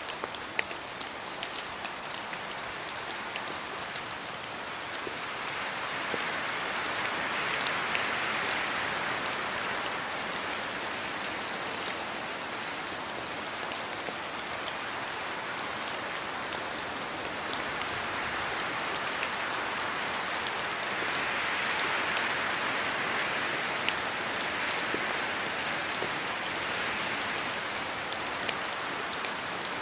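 Rain falling steadily, a dense hiss with many small drop ticks. It swells heavier twice, about a fifth of the way in and again past two thirds.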